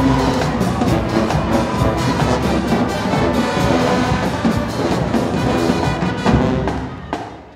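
High school marching band playing, brass and drums together, with regular drum hits; the band cuts off near the end.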